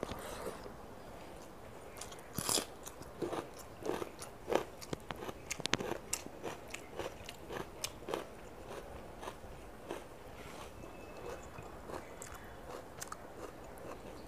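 Close-miked chewing of a mouthful of rice with a fried fish-roe fritter: a run of wet mouth clicks and small crunches, busiest from about two to nine seconds in, then sparser and fainter.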